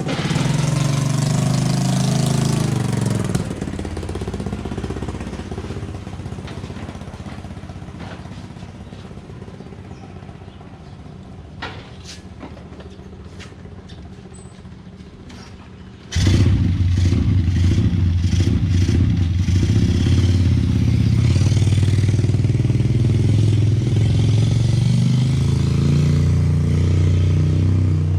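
Honda Revo underbone motorcycle with a two-cylinder engine conversion (one carburettor, two spark plugs), running. It revs for the first few seconds, then runs quieter with a few clicks. About 16 seconds in it turns much louder all at once and stays loud and steady.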